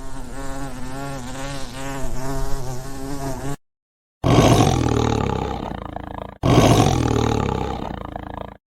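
A steady, wavering buzz for about three and a half seconds. After a short gap come two loud roars of a big cat, each about two seconds long and fading out.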